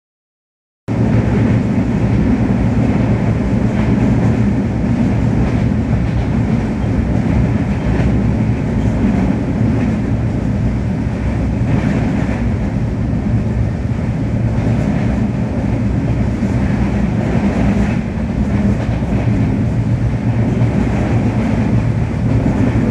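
A moving passenger train heard from inside its carriage: a steady loud rumble and rattle of the coaches on the track, starting abruptly about a second in.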